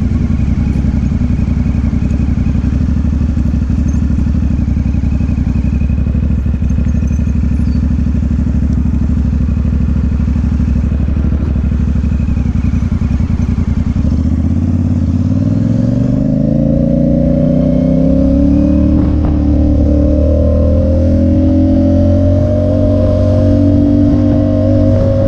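Motorcycle engine running at cruising speed under heavy wind noise on the microphone; about two-thirds of the way through the engine pitch rises steadily as the bike accelerates, then holds at the higher pitch.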